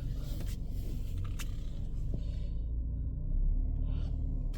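Car engine running at low speed while the car reverses slowly, heard from inside the cabin as a steady low rumble.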